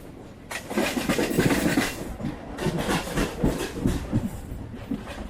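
A train running on the rails, its wheels clattering in irregular knocks over rail joints. The noise swells about half a second in.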